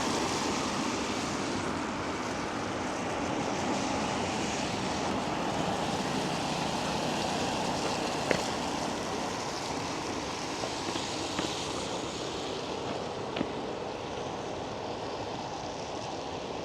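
Steady outdoor city ambience: an even wash of traffic and wind noise, with a sharp click about halfway through and another a few seconds later.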